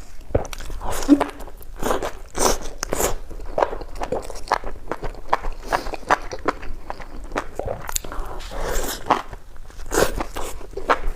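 Close-miked chewing and biting of crunchy food, with irregular crunches throughout.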